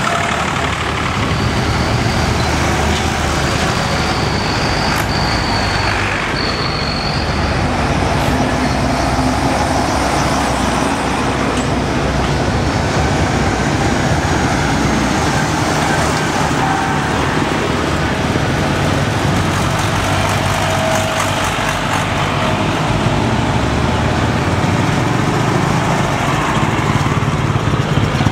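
Tractor engines running steadily, a continuous low engine drone with no pauses.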